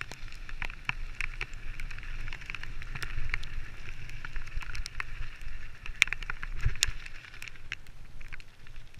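Mountain bike riding down a wet woodland trail: steady tyre and trail noise with many sharp clicks and knocks as the bike rattles over the ground, and wind rumbling on the microphone. It quietens a little near the end.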